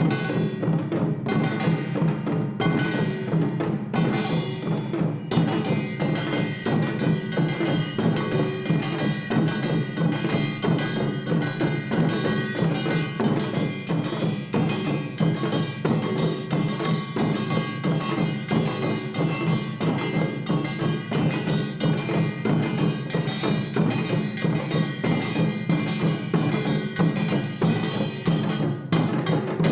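Traditional Korean percussion ensemble playing a fast, dense rhythm: janggu hourglass drums and buk barrel drums struck many times a second, under the steady ringing of kkwaenggwari and jing gongs.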